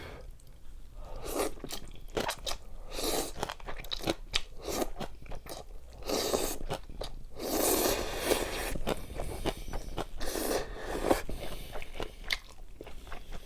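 A person eating up close to the microphone: chewing and crunching food in irregular bites.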